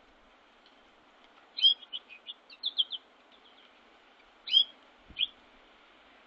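Small songbirds giving short, sharp chirps. Two louder chirps come about a second and a half in and about four and a half seconds in, with a quick run of fainter chirps between them.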